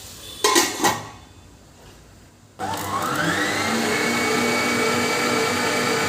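A couple of knocks, then about two and a half seconds in an electric mixer grinder switches on, its motor whine rising in pitch for about a second and then running steadily.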